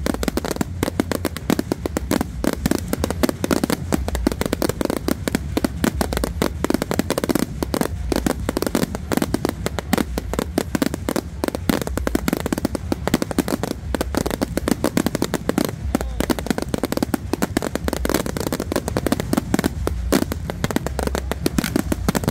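Aerial fireworks display: a dense, unbroken barrage of shell bursts and crackle over a steady low rumble of booms.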